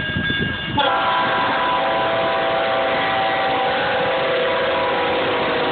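A locomotive air horn starts about a second in and holds one long, steady chord over the low rumble of the train.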